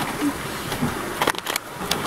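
Insect repellent being sprayed in a few short hissing bursts in the second half, over a steady background hiss.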